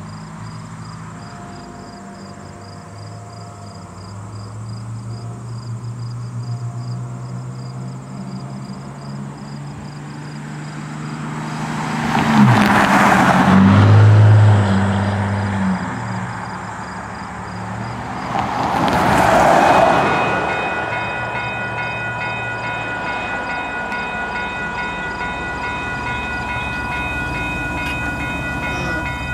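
GO Transit commuter train passing a level crossing at high speed. A loud rush of wind and wheel noise builds and peaks about twelve to fifteen seconds in, with a falling pitch as it goes by, then surges again about twenty seconds in. The crossing's warning bell rings in pulses, most clearly after the train has gone by.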